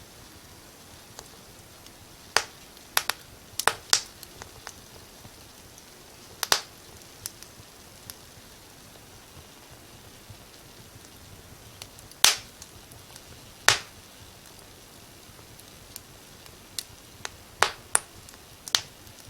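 Wood fire burning in a fireplace, crackling with sharp, irregular pops and snaps over a faint steady hiss. The pops come in clusters, with a quieter stretch in the middle.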